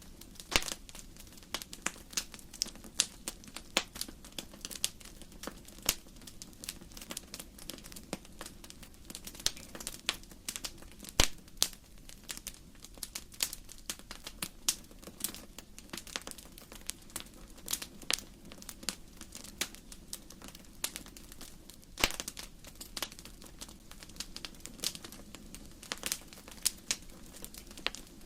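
Wood fire crackling in a fireplace: irregular snaps and pops of burning logs, several a second, over a steady low background, with a few louder pops, the loudest about 11 seconds in.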